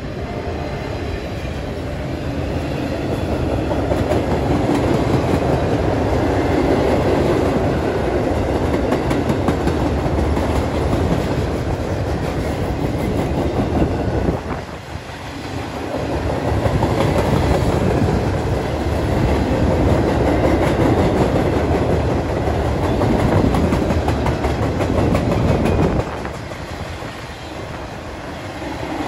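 A train's cars rolling by on the rails: a loud, steady rumble and rattle, with a brief dip about halfway through and a drop in level a few seconds before the end.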